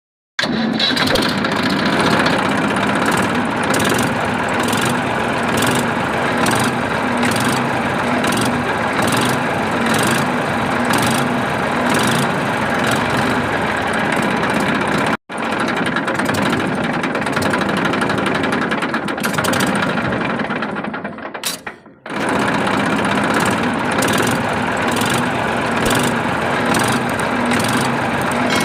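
A small motor running steadily, cutting out abruptly about fifteen seconds in and dropping away briefly near the twenty-second mark before running on.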